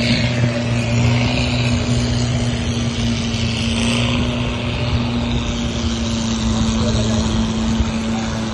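A boat engine running at a steady pitch, with a constant hum under the rush of wind and water.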